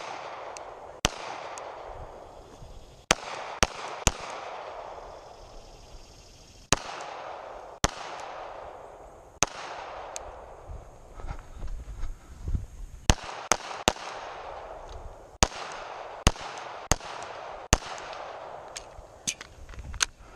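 Gunshots fired at irregular intervals, about eighteen in all, sometimes two or three in quick succession. Each shot is followed by a long echo that rolls off over a second or two.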